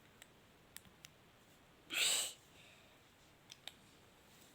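Light plastic clicks of Lego pieces being handled and pushed into place, a few single clicks spread out. About two seconds in, a short, sharp sniff, the loudest sound.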